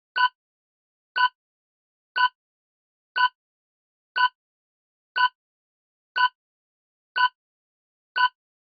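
Quiz countdown timer ticking: short, identical pitched ticks, one each second, nine in all.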